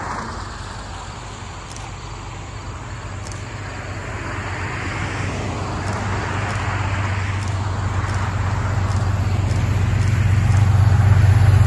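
Approaching Amtrak passenger train's diesel locomotive: a low engine drone growing steadily louder. Road traffic passes at the same time, swelling and fading a few times.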